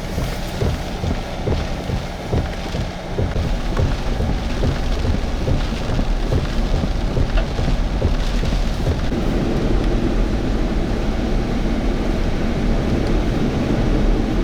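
Hurricane rain and wind: heavy rain with a low, gusty rumble pulsing through the first few seconds, then settling into a steadier rush.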